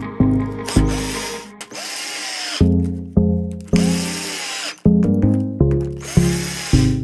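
A power tool motor runs in three short bursts, its whine rising and falling each time, over background music of plucked bass notes.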